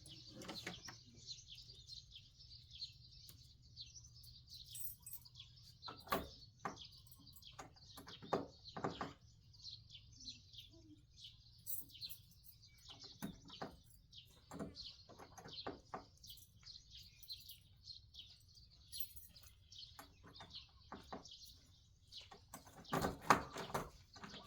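Birds chirping steadily in the background, with scattered short knocks and clatter, the loudest a cluster near the end.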